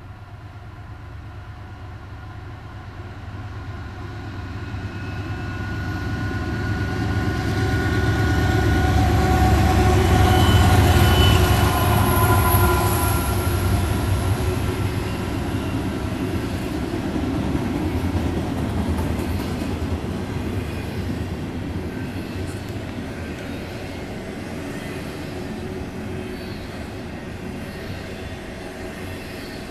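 Norfolk Southern diesel freight locomotives approaching and passing, their engine sound building to its loudest about ten to twelve seconds in. After that comes the steady rumble of a long double-stack intermodal container train rolling by.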